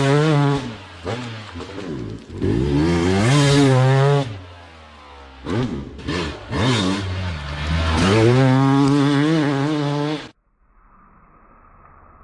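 Dirt bike engine revving hard in repeated bursts, its pitch climbing and dropping with the throttle. It cuts off suddenly about ten seconds in, leaving only a faint hiss.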